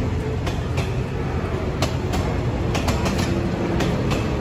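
State Railway of Thailand passenger train cars rolling past close by: a steady low rumble with irregular sharp clacks from the wheels and couplings.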